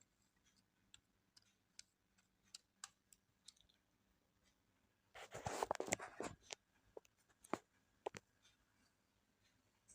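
Light clicks and taps of small parts being handled inside an opened laptop, with a louder scraping rustle about five seconds in that lasts about a second and a half, then a couple more clicks.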